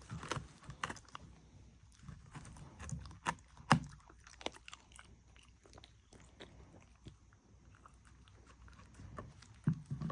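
A dog chewing and crunching food: irregular bites and clicks, busier in the first few seconds, sparse in the middle, picking up again near the end.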